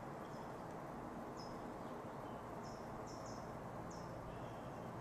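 Steady outdoor background hiss with a small bird giving several short, high chirps.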